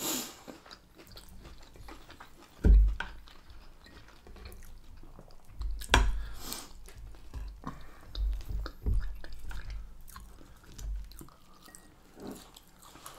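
People chewing and biting food at a meal, with sharp clicks of knife and fork on plates now and then, the loudest about three and six seconds in.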